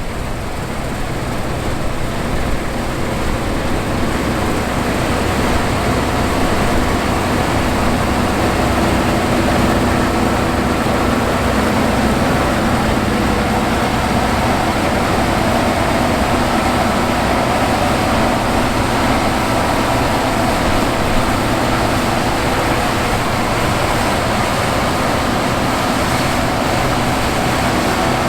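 Fendt IDEAL 7 combine harvester running while harvesting wheat: the steady drone of its 7-cylinder turbocharged diesel engine and threshing machinery, growing louder over the first few seconds and then holding steady.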